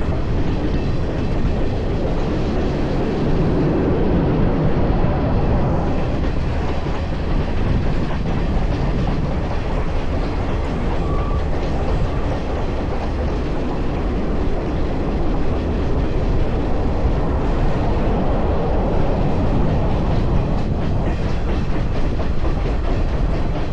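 A train running along the track: wheels on the rails giving a steady low rumble that holds at an even level throughout.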